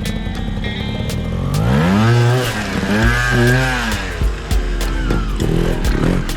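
Trials motorcycle engine revved up and down in a few blips, about two to four seconds in, over background music with a steady beat.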